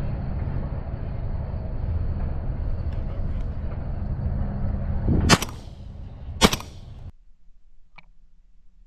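Two shotgun shots about a second apart over a steady low rumble. The sound cuts off abruptly soon after the second shot.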